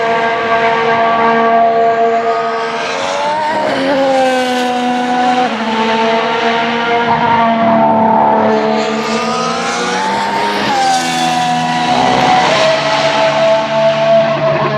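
Formula 1 cars' 1.6-litre V6 turbo-hybrid engines running at speed on track, the engine notes sweeping up and down in pitch several times as cars pass and change gear.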